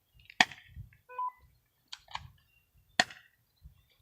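Two gunshots about two and a half seconds apart, each a sharp crack that dies away quickly.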